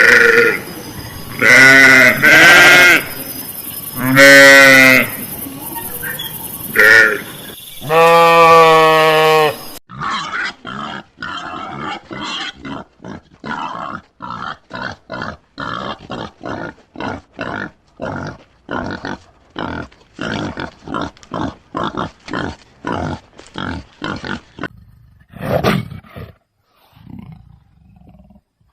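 Animal calls: several loud, pitched, wavering calls in the first ten seconds, then a long run of short, evenly spaced calls about two a second, and a single rough call near the end.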